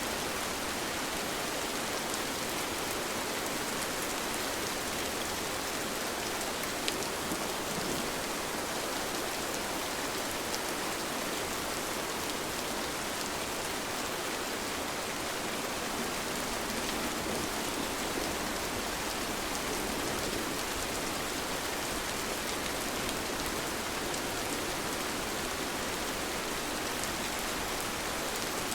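Steady rain falling, with a few drops ticking out of the even hiss.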